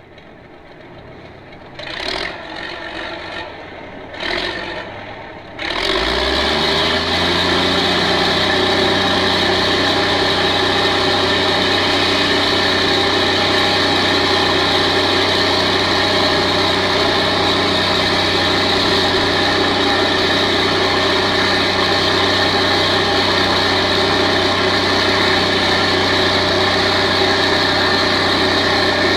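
A combustion engine starting: two short bursts of noise, then the engine catches about six seconds in and settles into a steady idle.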